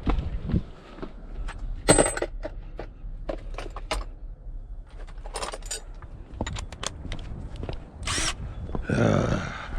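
Hand tools and loose metal parts clinking and knocking in irregular taps, as an appliance is taken apart to reach its motor for scrap. There is a sharp metallic clank with a ringing tone about two seconds in.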